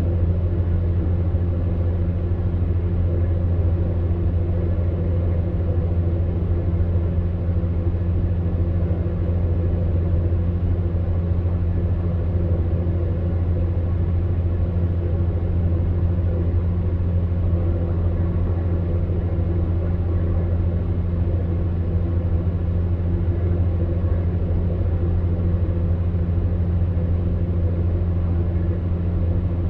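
Electric fan heater running steadily: a constant low hum with a few steady overtones, under an even rush of blown air.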